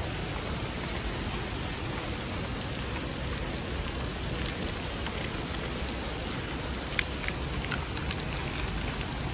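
Typhoon rain falling steadily with a constant rushing noise, with a few sharp taps of drops striking a surface about seven seconds in.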